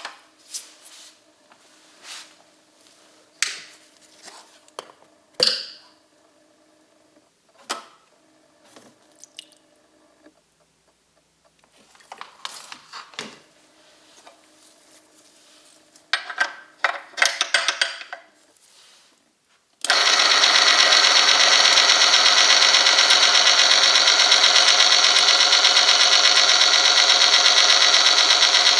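Scattered clicks and knocks of handling, then about 20 seconds in the oil-film tester machine switches on abruptly and runs loud and steady, its rotating shaft running the sample in 5W30 engine oil heated to 100°C.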